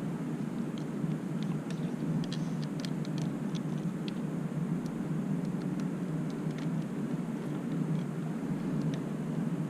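Light scattered clicks and taps of small motorcycle throttle parts being handled while the new throttle grip is fitted, over a steady low background rumble.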